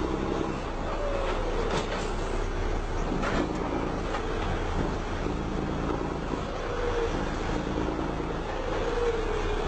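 Vehicle driving noise: a steady rumble of engine and road, with a whine that slides down in pitch several times.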